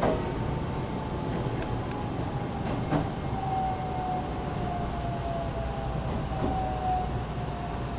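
Onboard running sound of a JR Central 313 series 0-subseries electric train, recorded in motor car KuMoHa 313-4, slowing as it approaches its terminus. A steady rumble runs under a motor whine that falls slowly in pitch, with a few sharp knocks from the wheels, one right at the start and one about three seconds in.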